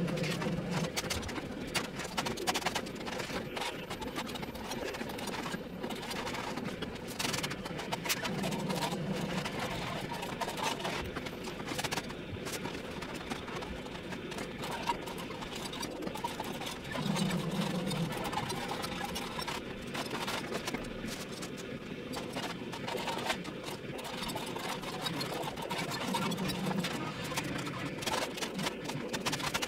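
Building work on a false wall: scattered clicks and knocks, with a short buzz of a small motor about every nine seconds, like a power screwdriver or drill driving a fastener.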